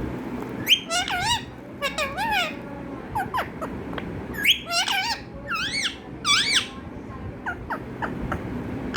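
Pet parrot making a run of high-pitched, squeaky warbling calls: about eight short phrases that waver up and down in pitch, spread across several seconds.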